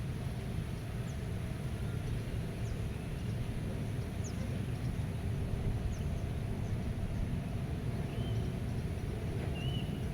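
Steady low wind rumble with faint bird calls over it: a few brief high ticks scattered throughout and several short whistled chirps near the end.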